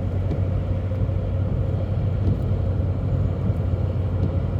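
Car cabin noise while driving: a steady low rumble of engine and tyres on the road, with a faint steady hum above it and a few light ticks.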